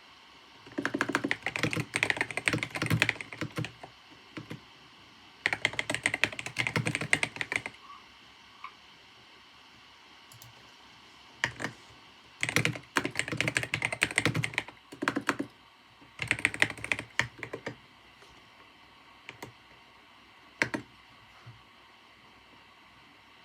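Computer keyboard typing in bursts of rapid key clicks, four runs of a couple of seconds each, with single keystrokes in the pauses between them, over a faint steady hiss.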